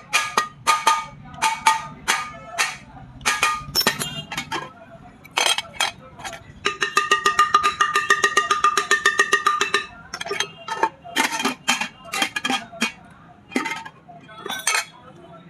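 Sharp metallic taps and knocks on a pressure cooker's metal, each ringing briefly, irregular at first, then a fast even run of about ten taps a second for about three seconds in the middle, then irregular knocks again.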